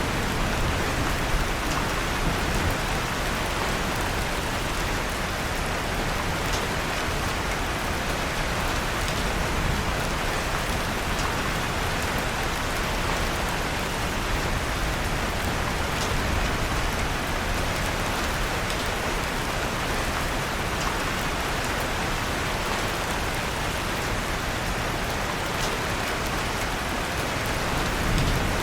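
Steady rain falling, an even hiss with no let-up, mixed with a fireplace whose occasional faint crackles come through as a few sharp ticks.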